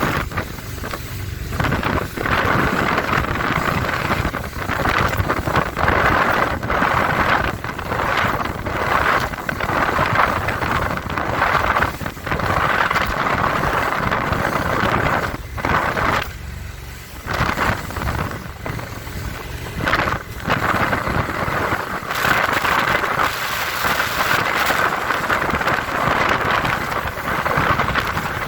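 Four Winns Liberator powerboat running fast through rough chop: engine noise and rushing wind buffeting the microphone, broken by repeated hull slaps on the waves.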